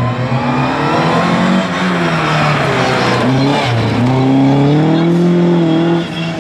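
A rally car engine, out of sight, revving hard; its pitch climbs and drops several times with the gear changes and throttle lifts along the stage.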